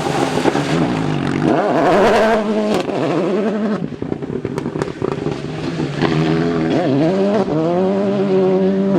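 Rally car engine accelerating hard, its pitch climbing, dropping at gear changes and climbing again. A few sharp cracks come around the middle.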